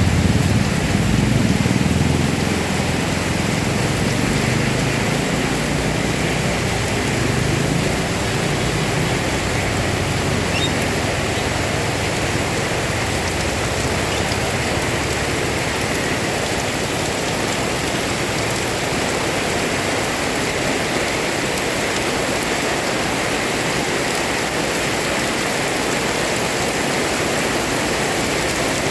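Heavy rain pouring down steadily, an even hiss of drops, with a low rumble fading away over the first several seconds.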